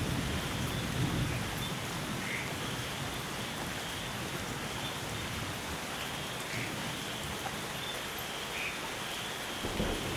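Steady rainforest rain. A low thunder rumble dies away in the first second or so, and another begins to build near the end.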